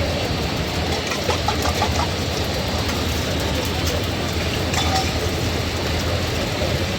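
Busy street-food stall ambience: a steady low engine hum with background voices and scattered short clatters.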